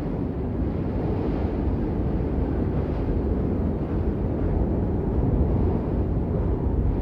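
Steady rain as white noise: an even, dense wash of noise, most of it low in pitch with little hiss on top.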